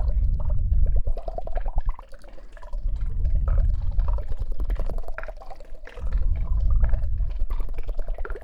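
Close, wet liquid sounds worked right against a binaural dummy-head microphone's ear, coming in three swells of about two seconds each, each with a deep rumble under a dense crackle.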